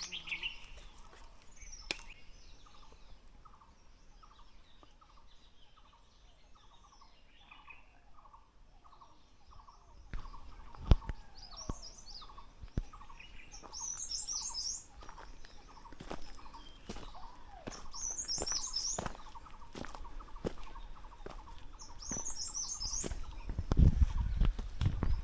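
Forest birds singing: a long run of short repeated notes, then short high chirping phrases that come back several times. From partway through, footsteps crunch on the trail at a walking pace, and a low rumble of wind or handling noise rises near the end.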